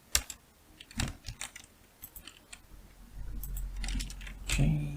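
Scattered, irregular keystrokes on a computer keyboard: a dozen or so separate clicks as keyboard shortcuts are typed. A low hum comes up about three seconds in.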